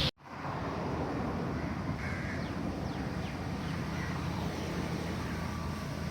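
A few short, harsh bird calls, crow-like caws, over a steady rushing outdoor background with a low hum. The sound cuts out abruptly for a moment right at the start.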